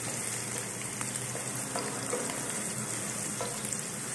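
Sliced onions and garlic sizzling steadily in hot oil in a frying pan, with a few light taps of a wooden spatula stirring them.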